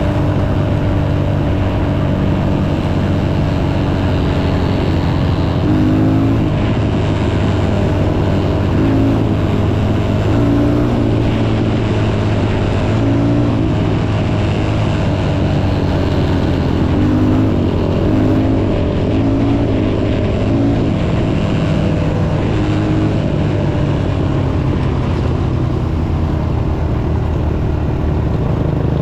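Dirt bike engine running continuously, its pitch wavering up and down with the throttle.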